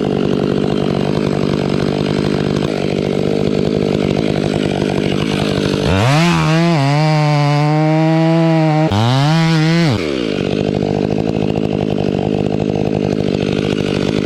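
Gasoline chainsaw engine running steadily, then revved hard about six seconds in, held at high revs for about four seconds with a brief dip, and dropped back near the ten-second mark.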